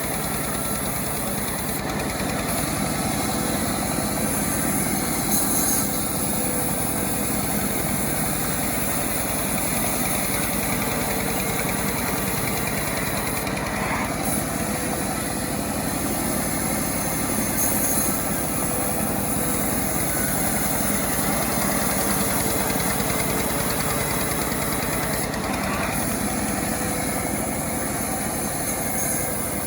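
A homemade chainsaw's small engine running steadily, with no clear revving or break.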